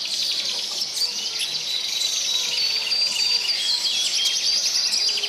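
A dense chorus of many birds chirping and singing together: rapid short high chirps, with a few longer held whistled notes.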